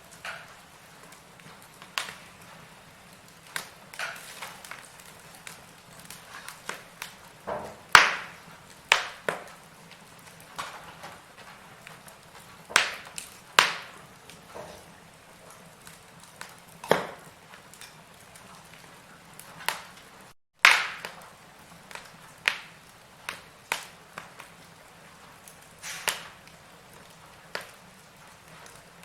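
Firewood burning in a fireplace, crackling with irregular sharp pops and snaps over a faint steady hiss. The two loudest pops come about a quarter of the way in and about two-thirds of the way in.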